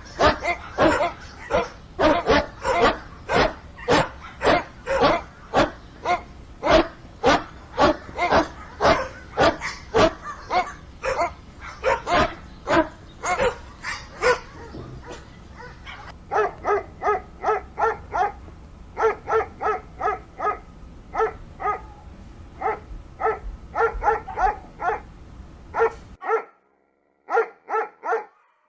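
A dog barking over and over in quick, short barks, about two or three a second. Near the end the background hiss drops away and a few sparser barks follow.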